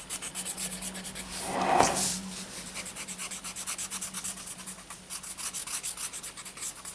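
Paper tortillon rubbing white charcoal into paper in quick, even strokes, about eight a second, blending it into soft shading. There is a brief louder swell about two seconds in.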